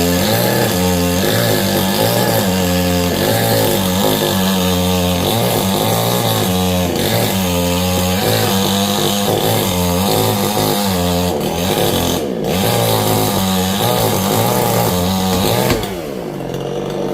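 Chainsaw cutting through teak wood, its engine pitch wavering up and down under load. About sixteen seconds in the revs fall away and it gets quieter.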